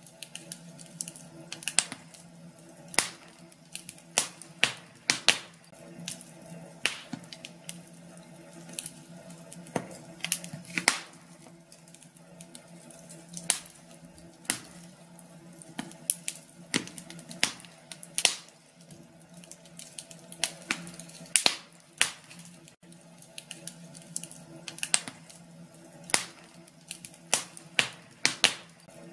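Wood fire crackling in a fireplace: irregular sharp pops and snaps, several a second and of uneven loudness, over a soft steady background.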